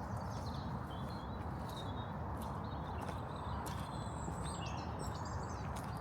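Small birds chirping and tweeting over a steady rushing background noise, with footsteps clicking now and then.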